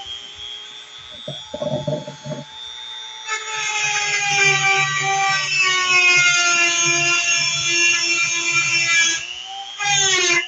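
Blender motor running with a high whine whose pitch drifts slowly. It runs softer at first, with a short rattle of clicks about two seconds in, then picks up louder about three and a half seconds in, dips and swings in pitch near the end, and comes straight back.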